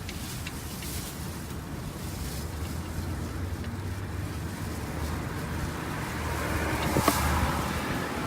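Old engine oil streaming out of the oil-pan drain hole and splashing into a catch container, a steady wash that swells toward the end, with one sharp knock about seven seconds in.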